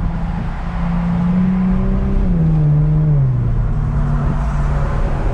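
Infiniti Q50's twin-turbo 3.0 V6 with a muffler delete, driving with a steady exhaust drone. The engine note rises slightly, then drops in two steps a little past two seconds in and settles lower.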